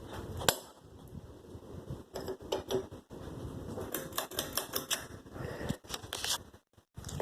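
Irregular, rapid clicking and rattling, typical of the ceiling fan's metal pull chain being handled and worked on.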